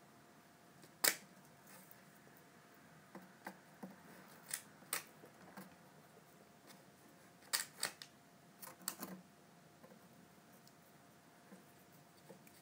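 Scattered light clicks and taps while a kitten is played with, at irregular intervals. The loudest come about a second in and again around seven and a half to nine seconds in, over a faint steady hum.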